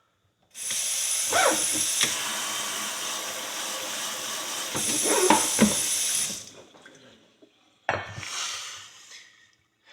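Kitchen sink tap running hot water into the sink for about six seconds, then turned on again briefly near the end.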